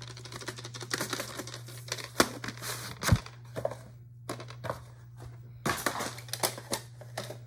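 VHS cassette and its case being handled: irregular plastic clicks, knocks and rustling, over a steady low electrical hum.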